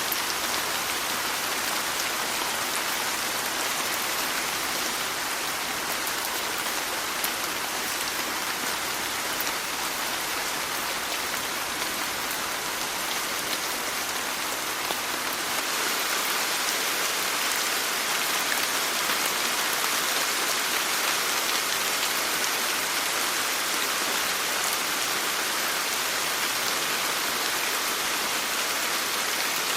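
Steady rain falling, a dense even patter of drops, growing a little louder about halfway through.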